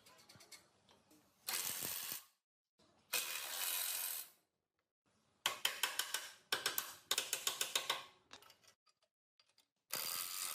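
Workshop tool work: two short bursts of hiss, then about three seconds of quick mechanical clicking at several clicks a second, and a third burst of hiss near the end.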